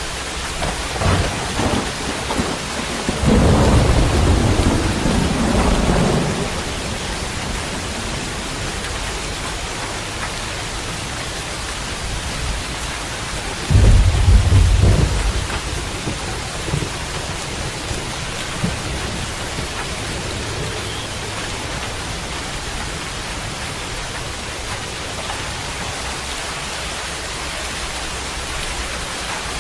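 Steady rain with two rolls of thunder: a longer rumble about three seconds in, preceded by a few sharp cracks, and a shorter one about fourteen seconds in.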